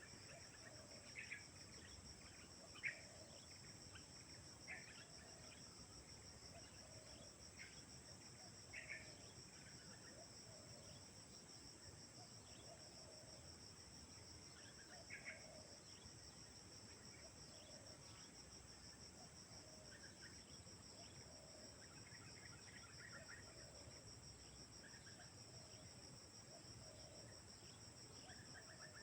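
Faint, steady high drone of crickets or other insects, with soft low cooing of a spotted dove repeating every second or two and a few brief chirps from other birds.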